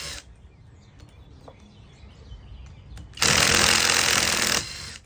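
Skil impact driver hammering on a GM 2.4 L water pump housing bolt in one burst of about a second and a half, starting about three seconds in. It is on its low power setting and struggles with the bolt.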